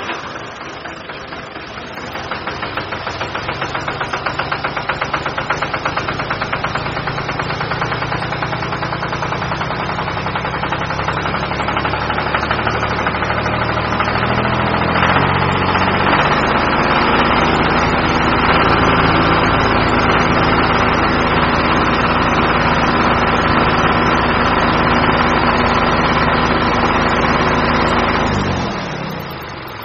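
Mini diesel engine running with a fast, even knocking beat. It picks up speed over the first few seconds and again about halfway through, then drops back near the end.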